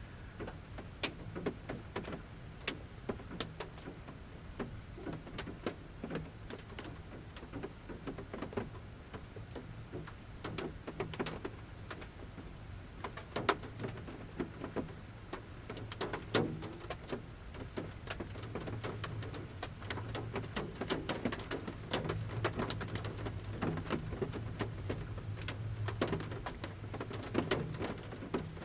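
Large raindrops from the forest canopy pattering on the roof of a camper van at irregular intervals, heard from inside the van.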